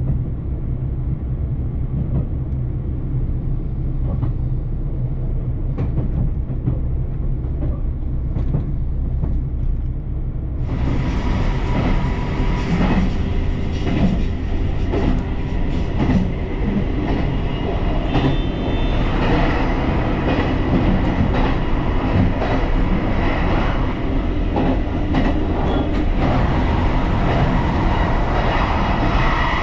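Train running on rails: a steady low rumble with wheels clacking over rail joints. About ten seconds in, the sound changes abruptly to a brighter, louder run with clicks and a faint squeal.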